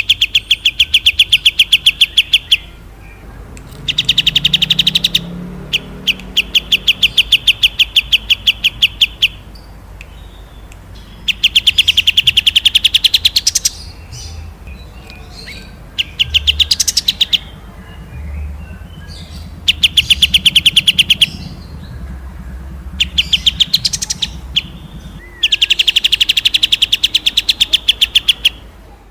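A small songbird giving rapid, dry rattling trills, about nine bursts of one to three seconds each separated by short pauses, over a faint low hum.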